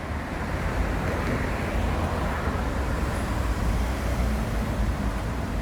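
Steady city road traffic noise: a continuous rumble of passing vehicles.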